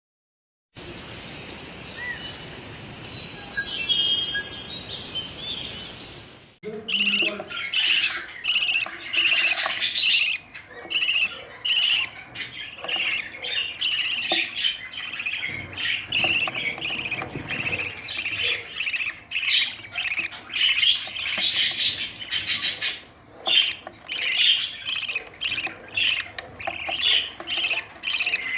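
Budgerigars chirping and squawking in quick, repeated short calls, several a second, from about seven seconds in: budgie chicks begging while being fed. Before that comes a quieter, muffled stretch.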